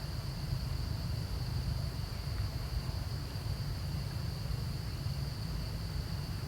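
Steady high-pitched drone of insects, cricket- or cicada-like, holding one even pitch throughout, over a steady low rumble.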